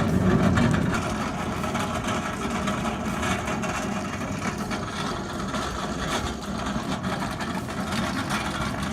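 A boat hull scraping and grinding along hard ground as it is pushed and dragged, a steady rough noise that eases a little after the first second.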